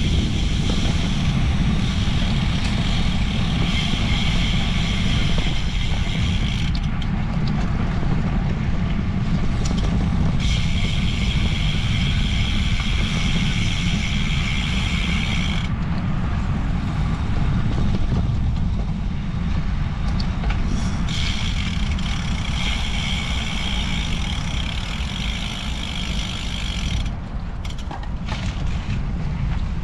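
Wind rushing over the microphone of a moving bicycle, steady throughout. A high buzz comes and goes three times on top of it, dropping out near the end.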